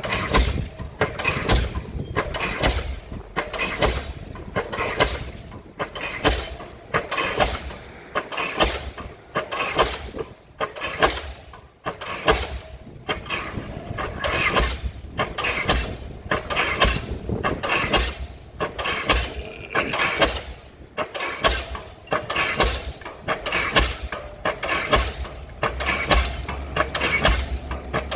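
Diesel pile hammer driving a pile, striking in a steady rhythm of about one blow a second.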